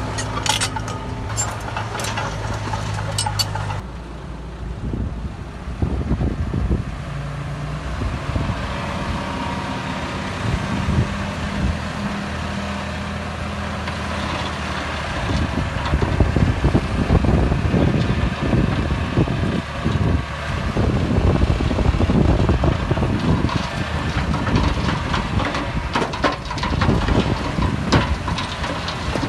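Heavy diesel earthmoving machinery at work, a bulldozer and dump truck, with an engine running steadily at first. From about halfway it turns into a louder, uneven low rumble with many short knocks, typical of rock being dumped or pushed.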